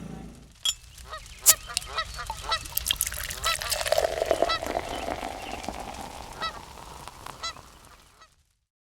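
Waterfowl honking, many short overlapping calls repeated over and over, fading out near the end.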